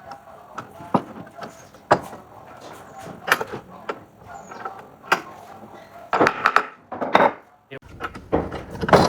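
Irregular knocks and clatter of wood being handled and worked, with a busier stretch of knocking a little past the middle.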